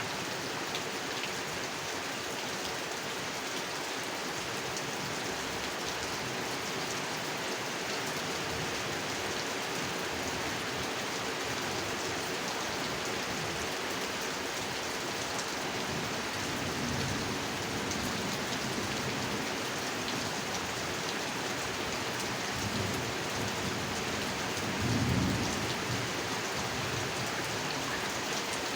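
Heavy rain falling steadily onto a pond, with low rumbles of thunder, one brief louder rumble near the end.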